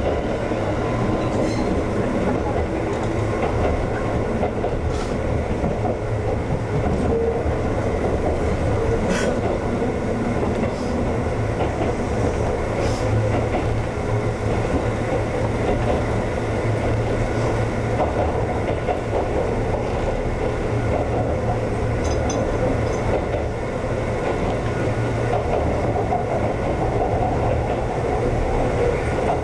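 Konan Railway 7000 series (ex-Tokyu 7000) electric train running steadily along the line: a continuous rumble of wheels on rail, with a few scattered clicks over rail joints.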